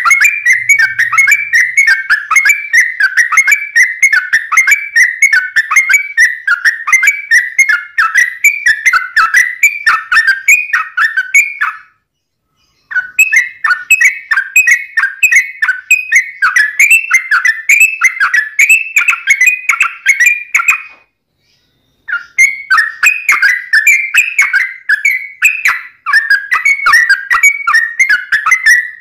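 Yellow-vented bulbul (trucuk) singing a long, fast, unbroken run of short, whistled warbling notes, the rapid-fire 'ropelan' song used to tutor captive birds or lure wild ones. The song cuts out twice for about a second, near 12 and 21 seconds in.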